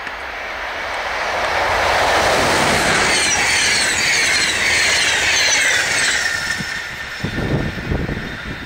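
EP09 electric locomotive and passenger coaches passing close at about 160 km/h: a rush of wheel and rail noise that swells, is loudest from about two to six seconds in, with high tones sliding downward as the coaches go by. Near the end it gives way to low gusts of wind buffeting the microphone in the train's snow blast.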